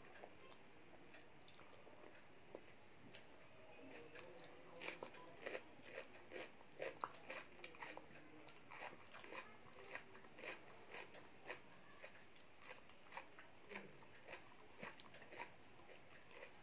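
Close-up chewing of a mouthful of dal and rice: soft, wet mouth clicks and smacks, about one or two a second, beginning a few seconds in.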